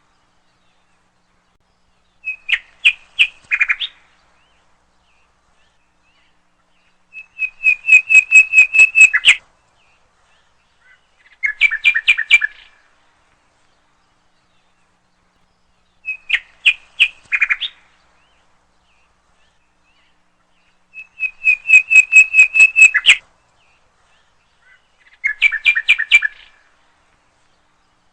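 A songbird singing in short phrases of quick, repeated high chirps, each phrase a second or two long with pauses of a few seconds between. One phrase type is a fast run of about ten notes, and the same sequence of three phrases comes round twice.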